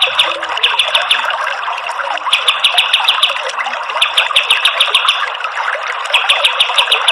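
Kapas tembak bird giving its rapid rattling call: bouts of about a second of quick, evenly spaced notes, several times over. Underneath runs a steady rush of flowing water.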